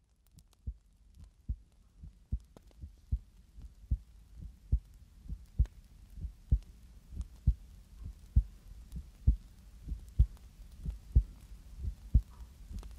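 Slow, even heartbeat, a little over one beat a second, each beat a low soft double thump, with faint light ticks between the beats.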